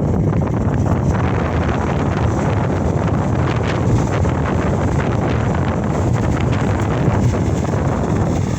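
Diesel engine of a Case SR200 skid-steer loader running steadily under wind noise on the microphone.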